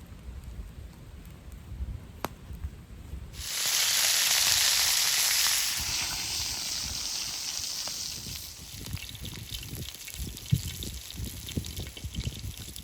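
Wild boar meat frying over a campfire: a sudden loud sizzle starts about three seconds in, eases off over a few seconds, and gives way to irregular crackling and popping.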